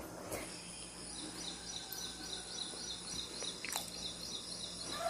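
A bird chirping in a rapid, even series of high notes, several a second, over quiet room noise, with a single click near the end.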